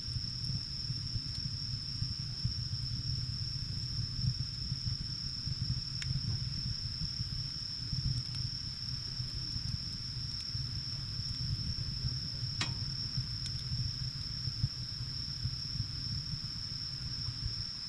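Wood fire burning with a low, steady rumble and a few sharp crackling pops, the clearest about six seconds in and near the middle. A steady high insect trill, typical of crickets, runs under it.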